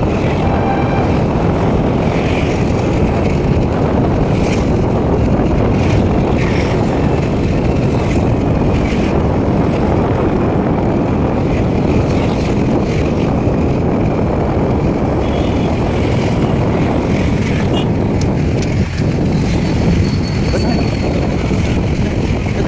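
Steady, loud rumble of vehicle and wind noise on the microphone, with a few faint clicks.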